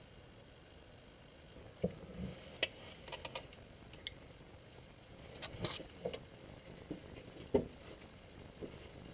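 Scattered light knocks and clicks of tools and parts being handled, irregularly spaced, with the sharpest about two and a half seconds in and again near seven and a half seconds.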